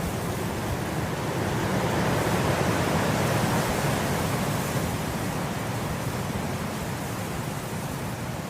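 Wind blowing through grass, a steady rushing that swells in a gust about two to four seconds in, then eases.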